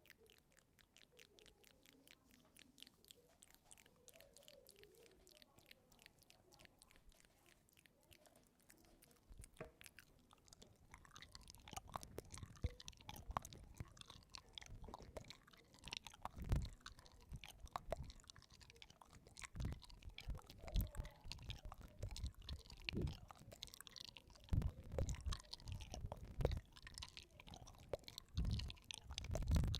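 Close-miked chewing and crunching of food, with crisp clicks and soft thuds of the bite and jaw; faint at first, then louder and busier from about a third of the way in.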